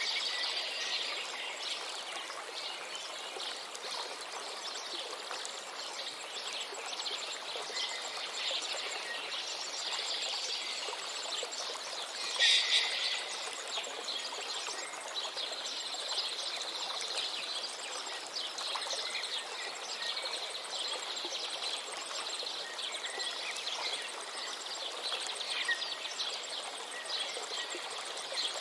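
River water flowing steadily, with many small birds chirping and trilling over it. One louder, sharper bird call comes about twelve seconds in.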